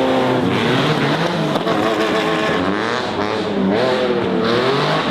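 Racing car engine revving hard, its pitch climbing and falling several times as the car accelerates and changes gear.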